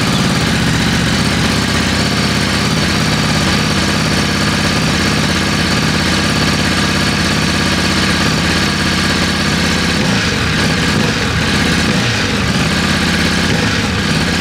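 Ducati DesertX's 937 cc Testastretta V-twin idling steadily through its stock exhaust just after being started, left running to warm up.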